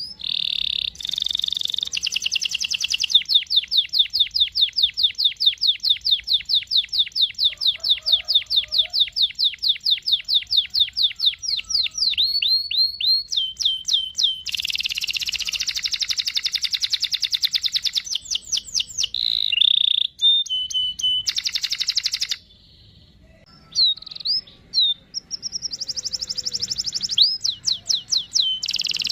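Domestic canary singing: long rolled trills of rapid repeated notes, one run lasting about nine seconds, broken by short pauses, with a near-silent gap of about a second past the middle.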